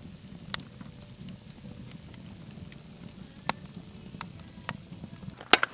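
Wood fire crackling under a cooking pot: sharp irregular pops every second or so over a low steady rumble.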